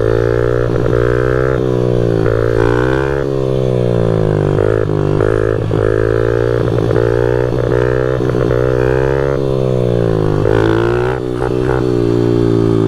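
Pit bike's small single-cylinder engine being revved up and down over and over while riding, its pitch rising and falling every second or two as the throttle is worked.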